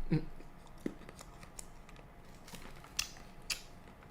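Faint, scattered clicks and crinkles of chocolates being handled and eaten, with a few sharper clicks about half a second apart near three seconds in.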